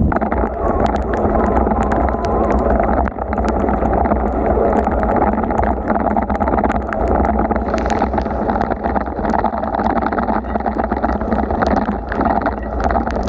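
Steady rushing noise of a bicycle ride in heavy rain: wind buffeting the microphone and wet road and water noise, with many scattered sharp ticks throughout.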